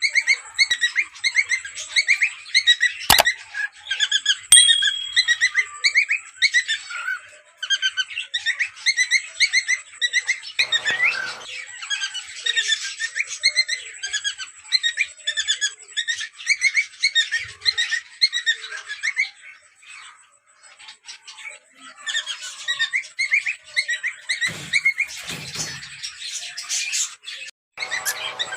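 Cockatiels chirping in quick, repeated notes almost without a break, with a short lull about two-thirds of the way through.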